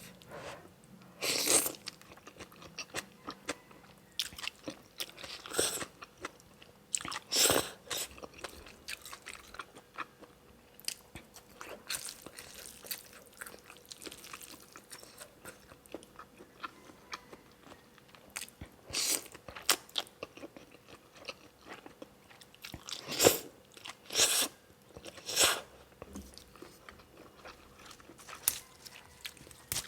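Close-miked eating: a person chewing and biting through spicy beef noodle soup and roasted chillies, small wet mouth sounds scattered throughout with about half a dozen louder ones.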